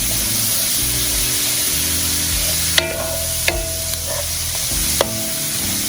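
Peppers and onions sizzling in butter in a pot as they are stirred, with three sharp clinks, each with a brief ring, from the utensil striking the pot.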